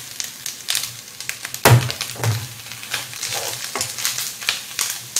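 Rendang spice paste sizzling in oil in a wok as pieces of reconstituted lion's mane mushroom are tipped in and stirred with spatulas, with irregular scraping and clicking against the pan. One loud knock comes about a second and a half in.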